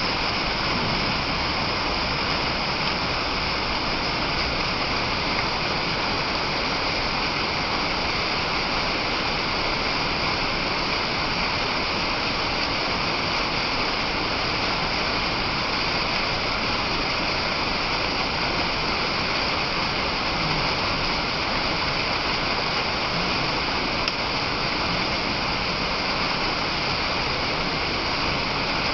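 Waterfall: falling water crashing in a steady, unbroken rush.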